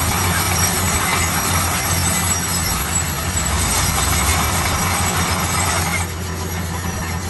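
Heavy construction machine's diesel engine running steadily, with a loud noisy rush over it that cuts off suddenly about six seconds in, leaving the engine hum.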